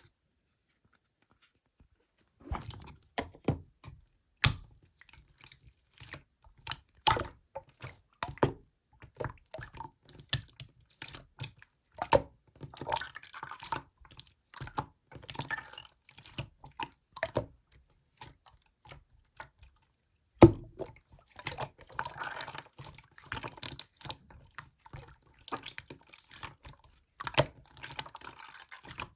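Slime being pressed and squished by hand: irregular sticky clicks and pops with stretches of wet squelching, starting about two and a half seconds in.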